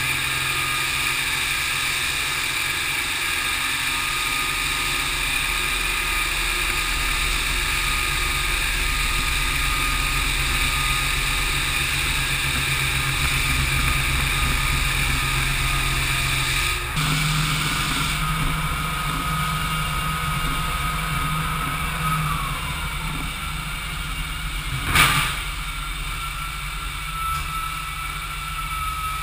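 Dustless floor sander with an on-board vacuum running steadily, its motor tone shifting about two-thirds of the way through. A single sharp knock comes near the end.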